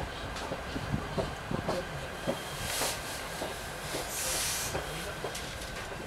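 S-Bahn commuter train running, heard from inside the carriage: a steady rumble with irregular clicks and knocks from the wheels over rail joints and points, and a brief hiss about three seconds in and a longer one about four seconds in.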